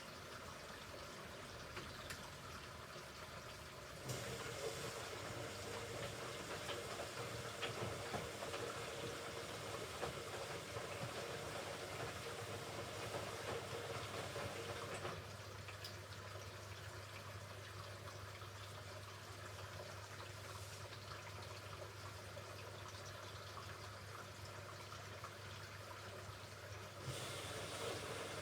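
Hoover Ecologic Computer Washer 1300 washing machine in its rinse cycle: water running and sloshing in the drum. It gets louder about four seconds in and eases about halfway through, when a steady low hum starts, then rises again near the end.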